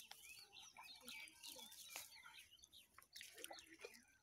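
Faint birds calling: many short quick chirps and calls, with a few soft clicks.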